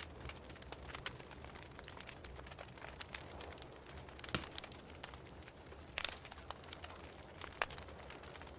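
Fireplace fire crackling: irregular sharp pops and snaps over a low, steady rumble, with the loudest pops about four and a half and six seconds in.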